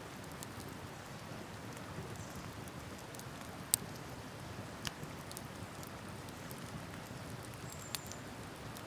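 Wood campfire crackling, with a few sharp pops about four, five and eight seconds in, over a steady rushing background of flowing river water.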